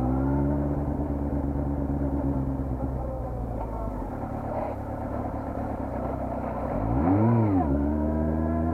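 Honda CBR400RR inline-four motorcycle engine running steadily, with one quick throttle blip about seven seconds in, its pitch rising and falling back within a second.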